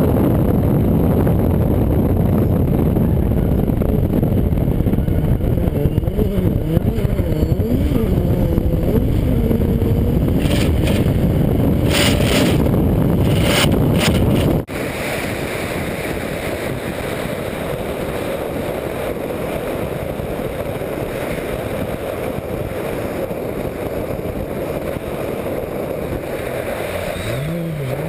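Turbocharged Audi S4 race car's engine running at speed on track, heard from a camera mounted on the car's side, under a dense rush of noise; the engine note rises and falls several times. The level drops suddenly about halfway through.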